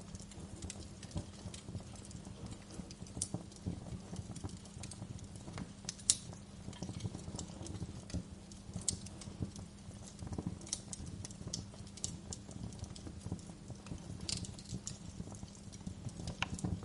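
Wood fire crackling in a fireplace: a steady low crackle with frequent small snaps and pops, one sharper pop about six seconds in.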